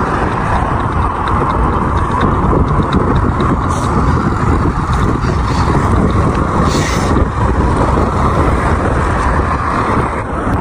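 Strong wind buffeting the microphone: a loud, steady rush with a heavy low rumble.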